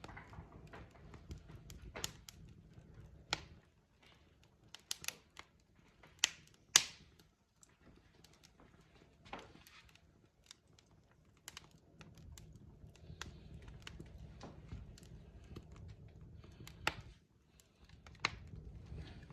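Log fire crackling: irregular sharp pops and snaps, the loudest a little under seven seconds in, over a low rumble of the flames that fades in the middle and returns after about twelve seconds.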